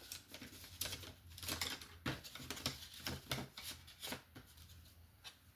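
Irregular small clicks and clatter of paintbrushes and painting supplies being rummaged through on a work table, over a low steady hum.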